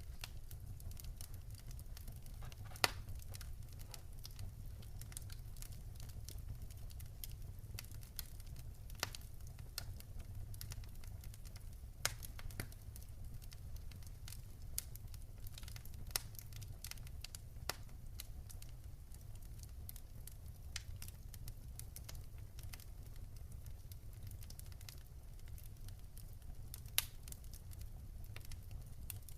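Wood fire burning in a fireplace: frequent small crackles over a steady low rumble, with a few louder pops scattered through.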